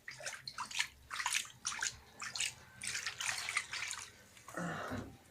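Water splashing and dripping in uneven bursts in a bathroom, with a fuller, lower splash about four and a half seconds in.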